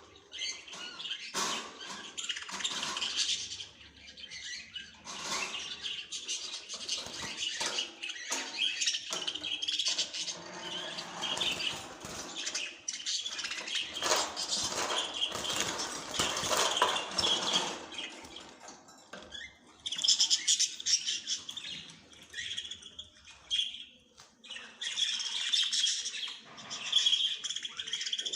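Small birds chirping and tweeting in a busy, continuous twitter, with noisier rustling or fluttering in the middle.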